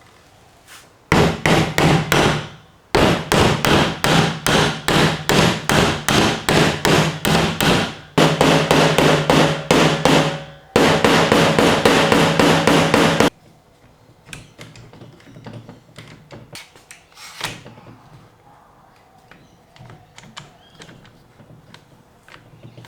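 Hammer blows on a wooden frame, about three or four a second in fast runs, with a ringing tone under the strikes: knocking the reglued doweled joints of a teak table frame together. The runs stop about thirteen seconds in, followed by lighter scattered knocks and handling, with one sharper knock a few seconds later.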